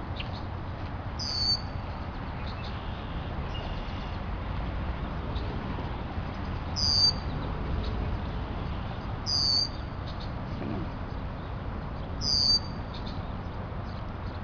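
Red-winged blackbird giving four short, high calls a few seconds apart, over a steady rumble of wind on the microphone.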